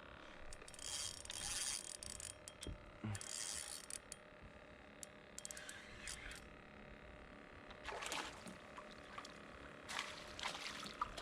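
Water splashing at the surface in about five short bursts, with a few sharp clicks between them, typical of a hooked fish being played beside a kayak.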